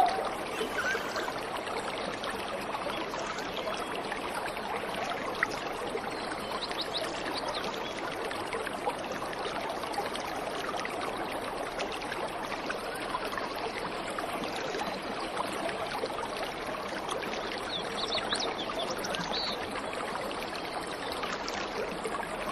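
Waterfall water running steadily, with a few faint, short high bird calls near the end.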